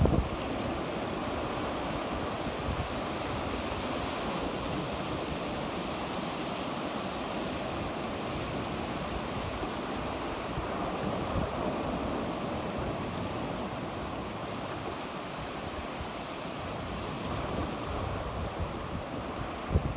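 Sea waves washing steadily onto the shore, a constant surf rush. Brief low thumps at the very start and again near the end come from wind on the microphone.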